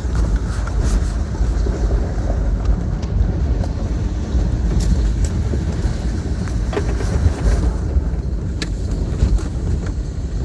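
Toyota Tacoma pickup driving off-road: a steady low engine and drivetrain rumble, with scattered short knocks and rattles over rough ground.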